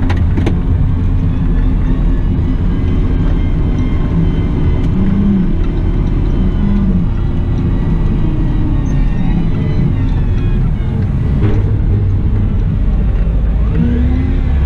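Cat 972M XE wheel loader running under work, a steady low engine drone whose pitch rises and falls slowly as it works, with a couple of sharp clicks at the start.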